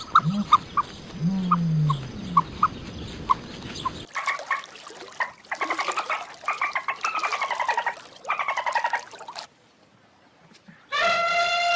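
A sequence of animal calls. First come short repeated chirps with low grunts. Then, after a change, bouts of rapid pulsed chattering calls that fall in pitch. Near the end, after a brief gap, a horse whinnies.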